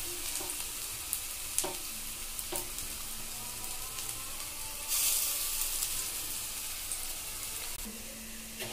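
Grated potato fritters (aloo pakora) shallow-frying in hot oil in a kadai: a steady sizzle, louder for a stretch about halfway through.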